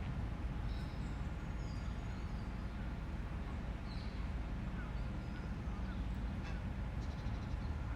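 City park ambience: a steady low rumble of distant traffic under scattered short, high bird chirps.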